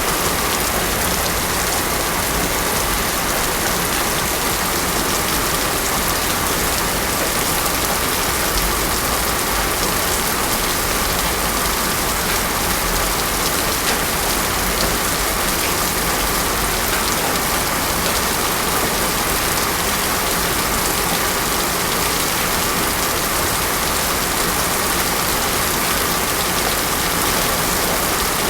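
Heavy rain falling steadily on a road surface: a dense, even hiss of drops with no thunder.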